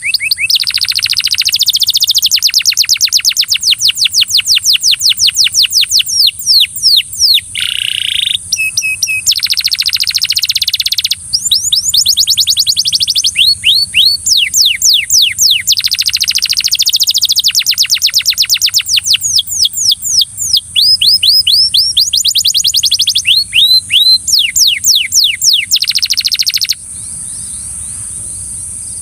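Belgian canary singing loudly in long phrases of rapid trills, each made of quick downward-sweeping notes, which stop about 27 seconds in. A steady high hiss runs underneath throughout.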